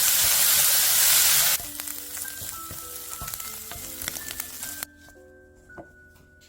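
Food sizzling loudly in a hot pan, cut off suddenly about a second and a half in. Light background music of short picked notes follows, softer still near the end.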